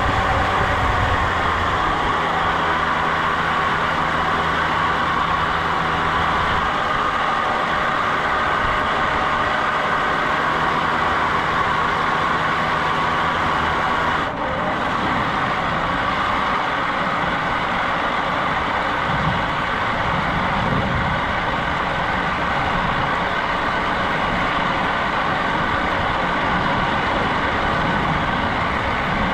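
An engine running steadily and loudly, with a short dip about halfway through, after which the low hum changes.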